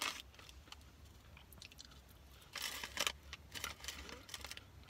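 Quiet chewing of crunchy fast-food fries, with a few short crackles about two and a half to four and a half seconds in.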